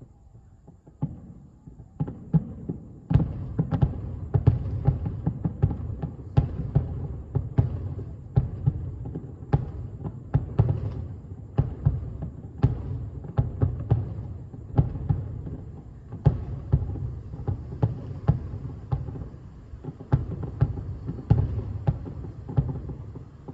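Aerial fireworks going off in a dense barrage: a rapid, continuous run of booms and cracks over a deep rumble, starting up about two seconds in.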